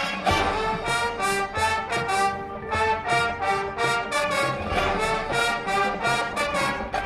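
High school marching band playing: brass chords, trombones and trumpets to the fore, over percussion hitting a quick, steady beat.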